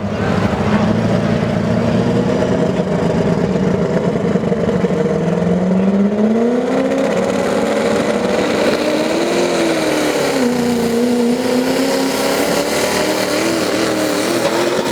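Diesel pickup engine, a 6.0-liter Ford Power Stroke, running at full throttle while pulling the sled. Its pitch climbs about a third of the way in, then wavers up and down as the load changes.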